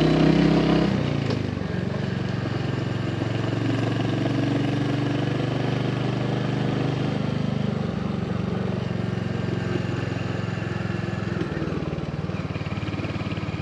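Royal Enfield Hunter 350's single-cylinder engine running at a steady pace while the motorcycle is ridden.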